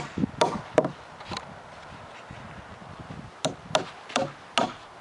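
Hammer driving galvanized nails into a cedar table board: about four sharp strikes, a pause of about two seconds, then four more strikes.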